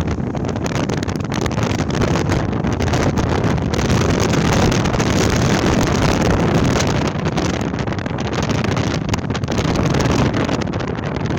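Gale-force wind rushing steadily and buffeting the microphone.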